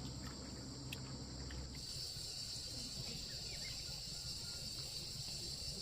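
Steady high-pitched chirring of insects, growing louder about two seconds in, over a low background rumble.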